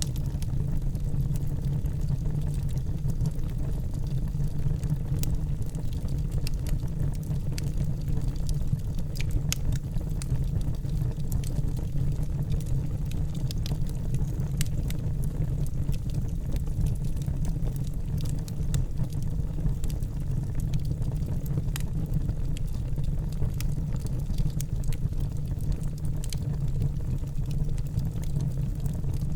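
Fire burning in a fireplace: a steady low rumble of flames with frequent, irregular sharp crackles.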